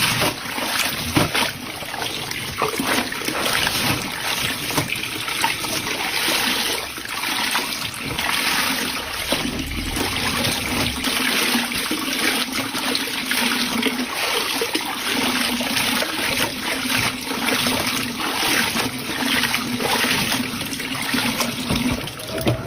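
Water rushing and splashing in a washing machine, with a faint steady hum joining about nine seconds in.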